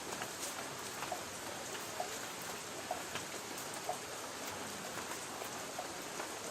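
Light rain on a tin roof: a steady hiss with individual drops ticking on the metal, several a second at irregular intervals.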